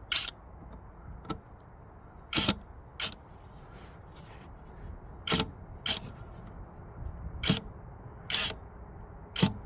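Irregular sharp knocks and clacks, about nine of them spaced a second or so apart, as hard parts are handled and fitted together.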